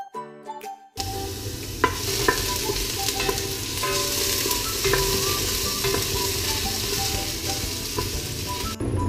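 Food sizzling as it fries in a hot pan, starting about a second in and cutting off suddenly near the end, with background music playing over it.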